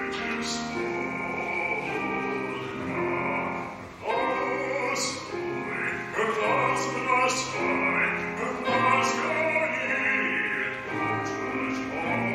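Singing in a slow style, with long held notes that step from pitch to pitch.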